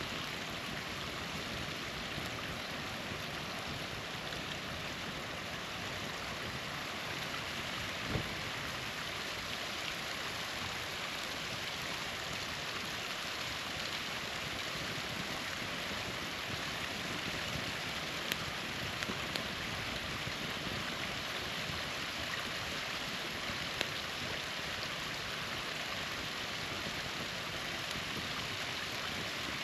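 A small waterfall splashing in a steady rush, with a campfire giving a few sharp crackles and pops, the clearest about 8 seconds in and a handful between 18 and 24 seconds.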